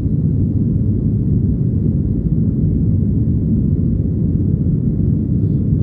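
Steady low rumble of jet engines and airflow heard inside the cabin of a Southwest Airlines Boeing 737 climbing out after takeoff.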